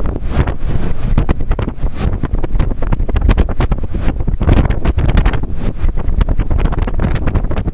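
Gale-force wind blasting across the microphone, a loud, continuous, irregular rumble and buffeting.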